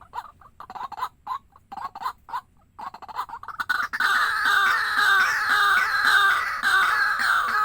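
Waterhen calling: a few short clucking notes, then from about four seconds in a loud, continuous run of rapidly repeated calls.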